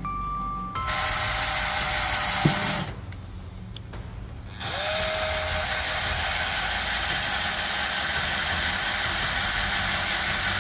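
Handheld power tool running in two stretches with a short pause between. Its motor audibly spins up at the start of the second run, and there is one sharp click during the first.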